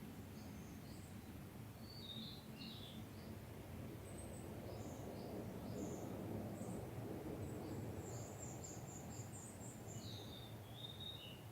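Small songbirds chirping in short high notes, with a quick run of notes about eight seconds in and a few falling notes after it. Under them a low rumble swells through the middle and fades: a distant train passing.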